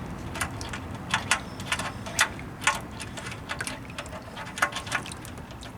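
Old engine oil dripping from the drain hole of a 1969 Ford F-250's oil pan into a catch pan: light, irregular ticking plinks over a low steady trickle.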